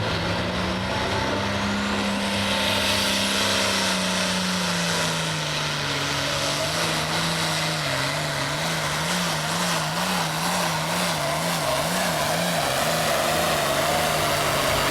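International Harvester 1466 hot farm tractor's diesel engine at full throttle pulling the weight sled, with a high whine rising in the first seconds. The engine's pitch sags as the sled's load builds, then wavers up and down about once a second through the second half as the tractor bogs and hops near the end of the pull.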